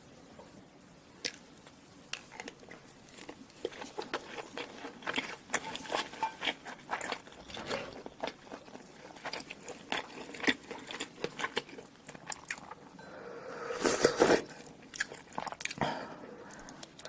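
Close-up eating sounds of one person chewing and biting food: many short, sharp wet clicks and crunches that start about a second in and grow busier, with a louder stretch about two-thirds of the way through.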